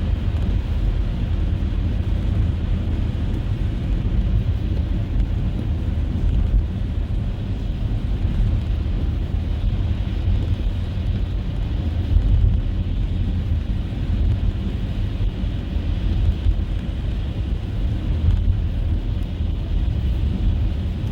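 A car driving, with a steady low rumble of road and engine noise that holds even throughout.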